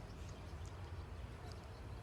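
Gusty wind buffeting the microphone: a low, fluttering rumble under faint outdoor hiss, with a couple of faint high chirps.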